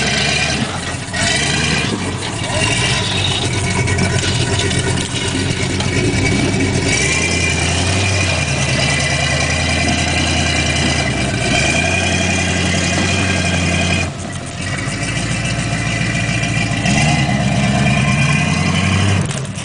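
A 4x4 vehicle's engine running under changing load, its pitch holding, shifting, and rising again near the end as it revs.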